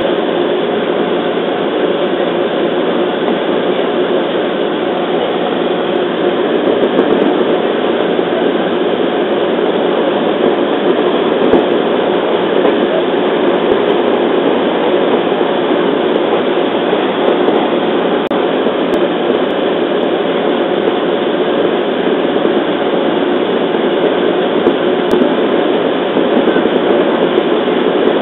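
Running sound of a JR East 211 series electric train heard from inside the carriage: a steady noise of wheels on rail and traction motors as the train runs at speed.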